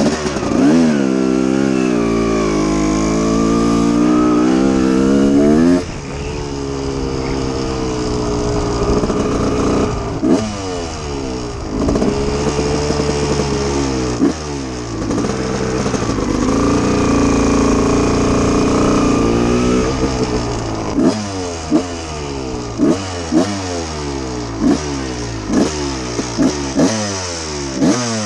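A 1989 Honda CR250 two-stroke engine run hard at high revs. It drops suddenly about six seconds in and runs high again, then gives a quick series of short throttle blips, about one a second, over the last several seconds. It pulls to high rpm with no cutout, which the rider puts down to a new E3 spark plug or a thorough power valve cleaning.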